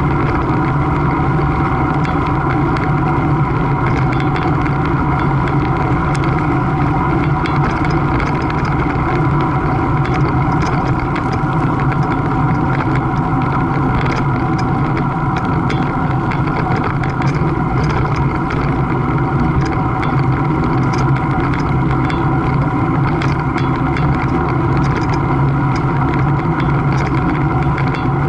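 Steady engine hum that runs without a break, with several fixed tones over a rough noise.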